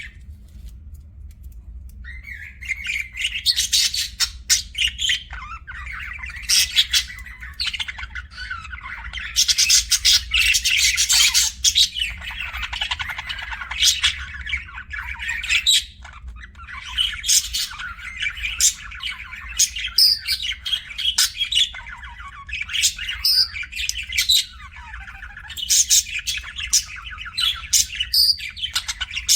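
Budgerigar chirping and warbling in a busy, continuous chatter with sharp high chirps, starting about two seconds in, over a faint steady low hum.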